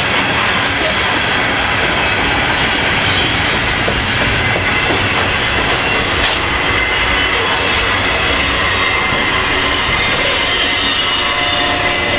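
Freight cars of a CN freight train rolling past at close range: a steady heavy rumble of wheels on rail, with clicking over rail joints and a thin high wheel squeal.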